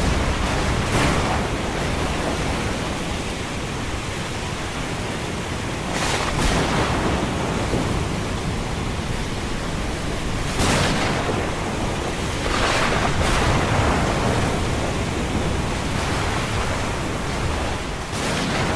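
Ocean waves breaking as a steady rush of surf, with louder crashes several times, a few seconds apart.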